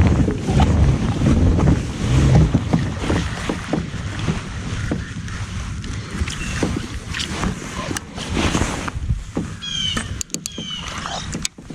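Water and handling noise around a plastic fishing kayak: low sloshing for the first few seconds, then scattered knocks and clicks from gear on the hull. A few quick, high, falling chirps come about ten seconds in.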